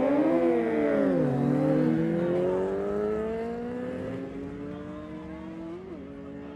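Sport superbike engine revving up and down at the start line, then launching and pulling away in one long, steadily rising run that fades with distance, with a quick gear change near the end.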